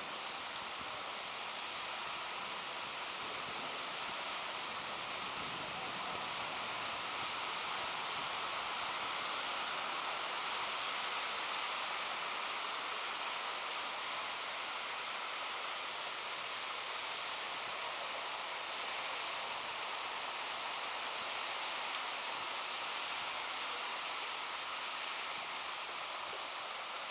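Steady rain falling, an even hiss with a few sharp ticks of drops hitting close by.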